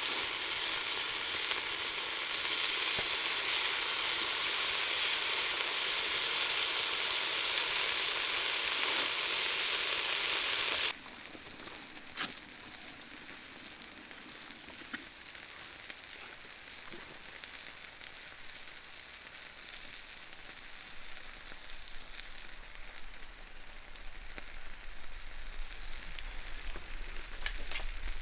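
Horumon (offal) frying and sizzling. The sizzle is loud at first, then drops abruptly about eleven seconds in to a quieter sizzle with occasional sharp pops.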